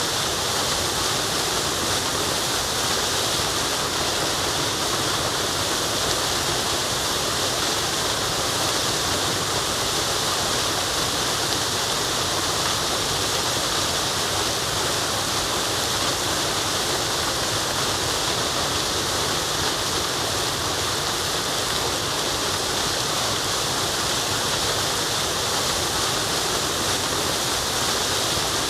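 Waterfall: a steady, unbroken rush of falling water, brightest in the hiss.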